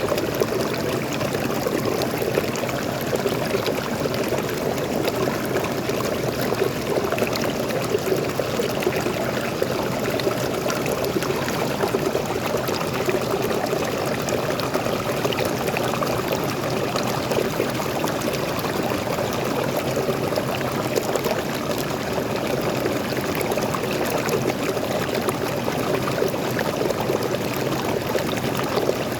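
Steady rush of a small waterfall and stream, water pouring and splashing without pause.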